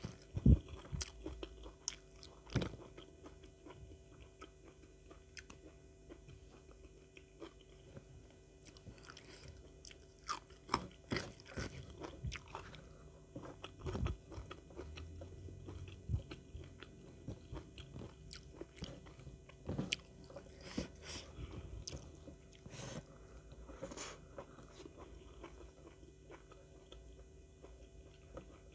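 Close-up chewing of rice and crunchy raw vegetables eaten by hand, with irregular sharp crunches and mouth clicks; the loudest crunches come about half a second and two and a half seconds in.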